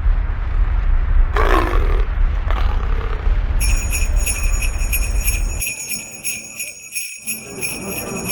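Jingle bells shaken rapidly, a steady shimmering jingle starting about three and a half seconds in. Under it, a low rumble stops about two seconds later. A short, loud sound comes about a second and a half in.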